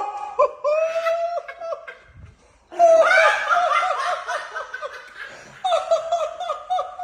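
A person laughing hard and high-pitched, in three bouts, with a short break about two seconds in and another just past five seconds.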